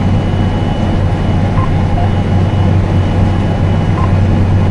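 Hay swather running steadily while cutting hay, with a low, even engine drone.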